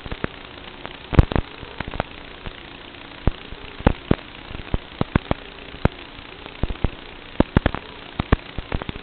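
Emax Tinyhawk micro drone's brushless motors humming steadily in flight, pitch wavering slightly with throttle. Irregular sharp clicks and knocks come several times a second throughout.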